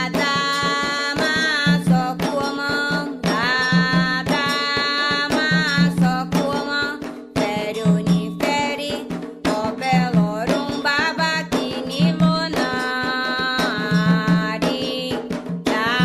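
Candomblé chant for Xangô: singing over hand drums and percussion beating a steady, driving rhythm.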